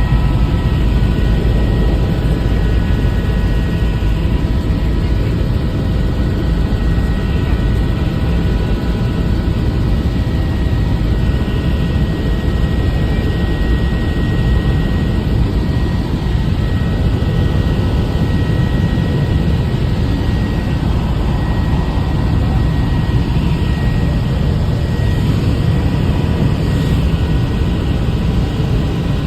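Helicopter in flight: a loud, steady low rumble of rotor and engine with a constant high whine on top.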